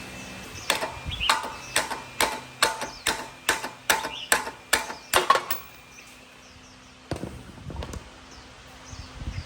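About a dozen sharp hammer blows on a metal part, a little over two a second, each with a short metallic ring. The blows stop about halfway through, and a few softer knocks follow near the end.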